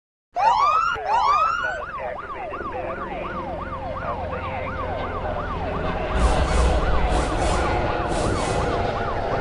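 Police car siren: two slow rising wails, then a fast yelp sweeping up and dropping about three times a second, with a low vehicle rumble underneath that grows louder near the end.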